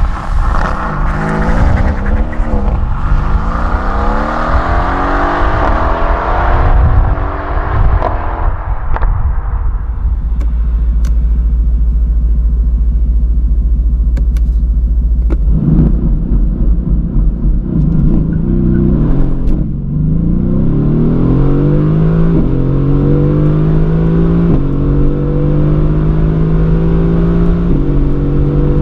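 Mercedes-AMG GT's twin-turbo V8, tuned to 612 hp, accelerating hard. Its pitch climbs through several gears and dies away after about eight seconds. It then idles steadily for a few seconds and launches from a race start at about fifteen seconds in: full-throttle acceleration with the pitch rising in each gear and dropping at three upshifts.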